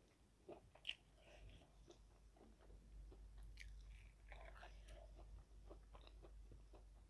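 Faint close-miked biting and chewing of a crispy battered fried onion ring: scattered crunches and wet mouth sounds, with one sharp click about a second in.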